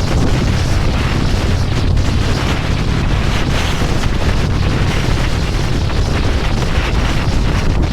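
Wind buffeting the camera microphone over a Harley-Davidson Electra Glide's V-twin engine running steadily while riding.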